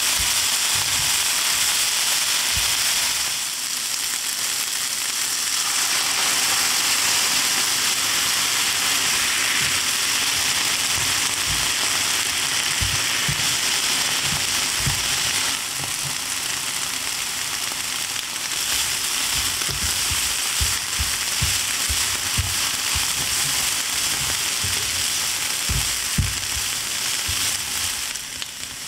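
Tofu noodles and vegetables sizzling in a hot frying pan, stirred with chopsticks that knock and scrape against the pan now and then.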